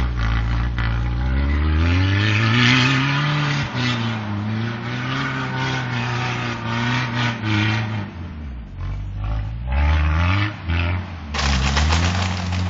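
Car engine revving up and down repeatedly, its pitch rising and falling, with the tyres spinning and sliding through snow as the car does donuts.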